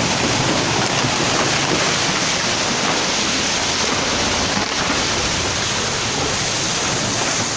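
Floodwater rushing past in a loud, steady torrent.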